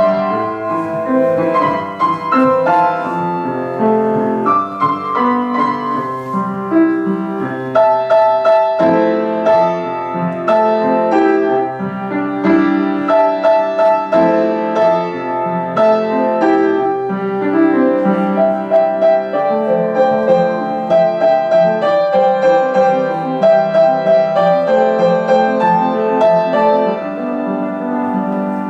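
Piano playing a flowing piece, with a melody over continuous chords and no pauses.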